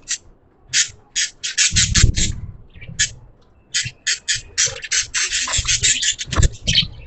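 Budgies chirping and chattering in quick, short bursts, sparse at first and almost continuous in the second half, with a soft low thud near the end.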